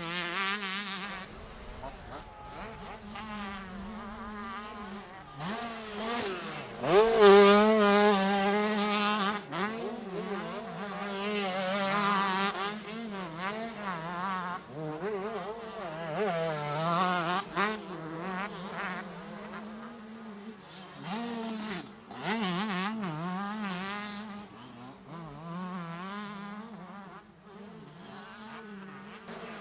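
Several 125cc two-stroke motocross bikes racing, their high-pitched engines revving up and down through the gears as they pass. The loudest pass comes about seven seconds in.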